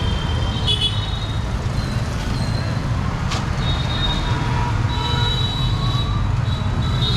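Street traffic: a steady low rumble of passing motor vehicles, with brief high-pitched tones coming and going and a sharp click about three seconds in.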